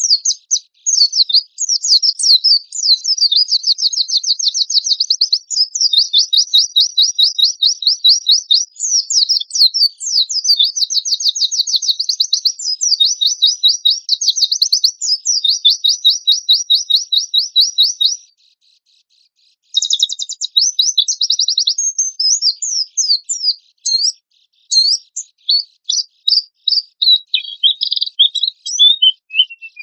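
A white-eye (pleci) singing fast, rough trills of rapid high notes in long unbroken runs. It pauses briefly about eighteen seconds in, then goes on with varied chirps and short trills.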